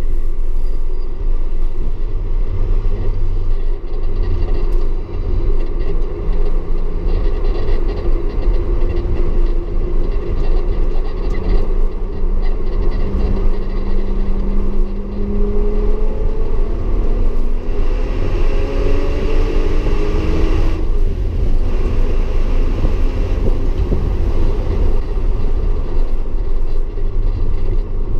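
Audi S4 engine pulling under load with a steady low rumble. Its pitch climbs over several seconds, then drops suddenly about three quarters of the way through, as at a gear change or a lift off the throttle.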